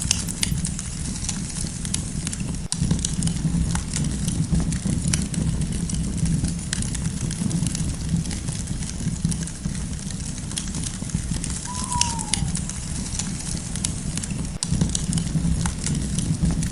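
Campfire crackling: a steady low rumble of the burning fire with frequent sharp pops and snaps of the wood. A single short falling bird call sounds about twelve seconds in.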